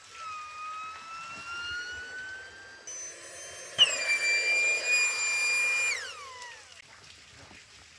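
Kettle whistling: a thin whistle climbs slowly in pitch, then breaks into a loud, steady shrill whistle a little under four seconds in. About two seconds later it slides down in pitch and dies away as the steam eases off.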